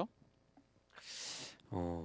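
A pause in conversation: a short, breathy hiss about a second in, like a sharp intake of breath close to the microphone, followed near the end by a voice starting to speak.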